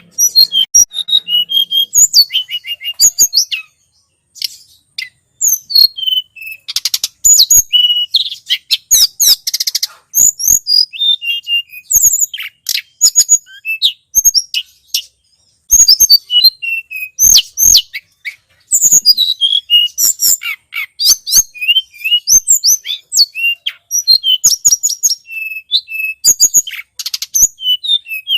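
Tledekan gunung, a mountain flowerpecker, giving rapid runs of thin, high-pitched chirps and trills in quick bursts with short pauses, as a bird-lure call recording.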